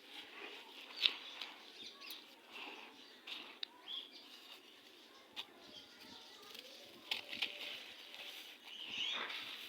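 Gritty red sand crumbling and crunching: an irregular run of grainy crackles and sharp ticks, with a louder snap about a second in.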